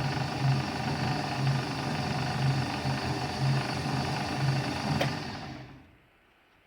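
Takeuchi MDD-60 paddle-type food mixer running under its electric motor, with gear and chain drive noise and a steady throb about once a second. About five seconds in it is switched off with a click and runs down over about a second.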